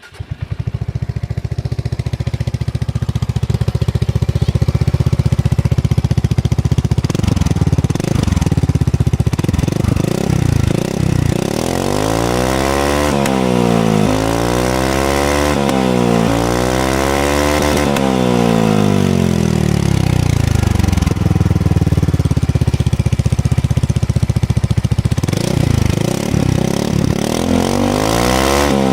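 Suzuki Burgman 400 scooter's single-cylinder engine running through an aftermarket sport exhaust. It idles steadily just after starting, then is revved several times in quick succession, each rev rising and falling. It drops back to idle, then revs again near the end.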